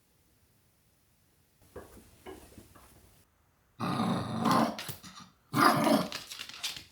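A dog growling in two loud bouts of about a second each, after a few faint clicks.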